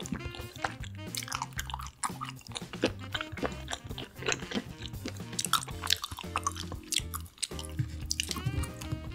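Close-up chewing and biting: many short wet smacks and crunchy clicks of food being eaten. Background music with a steady bass line plays underneath.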